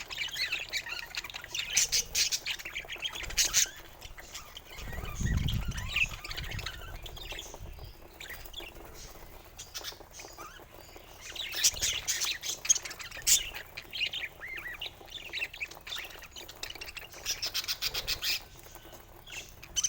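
Budgerigars chattering and squawking in bursts of rapid scratchy chirps, with quieter stretches between. A brief low rumble comes about five seconds in.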